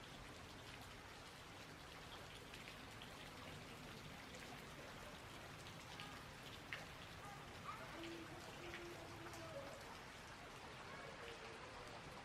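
Faint patter of water drops, many small scattered ticks over an even hiss.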